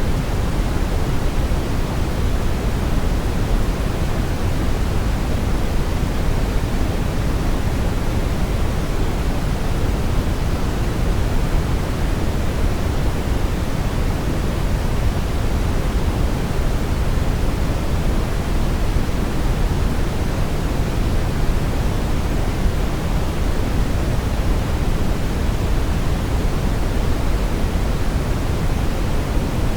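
Steady brown noise: an even, deep rushing hiss, strongest in the bass, with no tones or changes.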